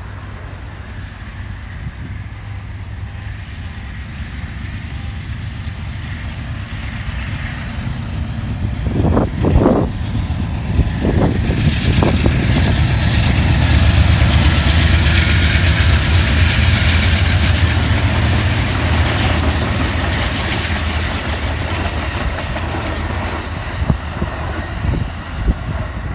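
Diesel-hauled train passing: the low engine rumble builds over the first half, with a few heavy knocks about nine to twelve seconds in. Wheel-on-rail noise is loudest in the middle, then eases off, with a couple of clicks near the end.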